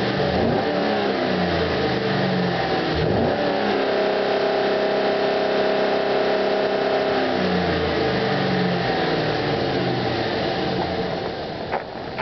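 Chevrolet Silverado engine and exhaust, cold, revved hard in short blips, then held at high revs for about three seconds before dropping back toward idle.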